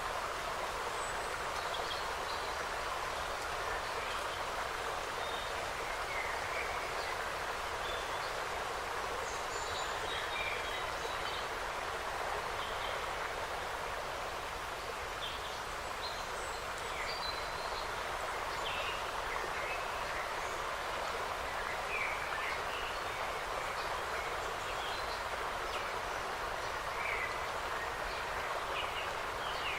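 Forest ambience: a steady rushing noise under scattered short chirps of small birds calling throughout.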